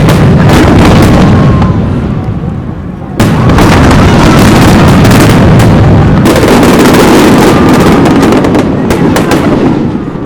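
Aerial fireworks bursting in a dense barrage, many booms and crackles overlapping. It eases off briefly, then comes back suddenly and loud about three seconds in, and thins out near the end.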